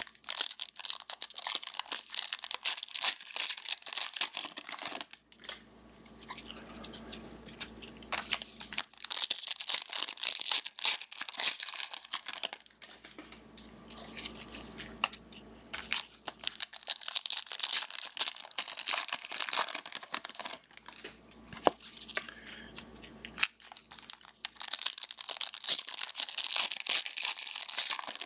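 Trading card pack wrappers being torn open and crinkled by hand, in several bursts of crackling with short pauses between them.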